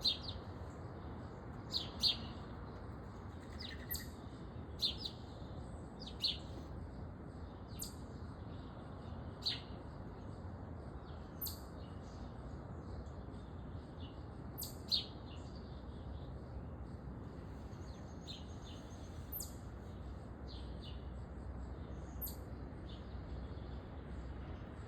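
Small songbird repeating short, sharp chip calls, about one every one to two seconds, over steady low background noise.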